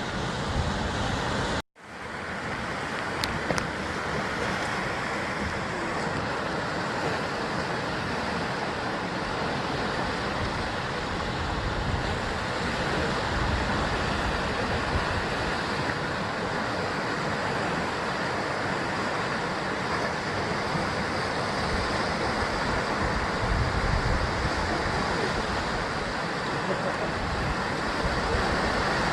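Sea surf washing steadily against the rocky basalt-column coast. A brief cut to silence about two seconds in, from an edit, interrupts it.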